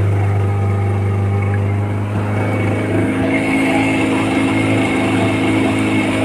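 Motorboat engine running steadily with a strong low hum, its tone shifting slightly about three seconds in.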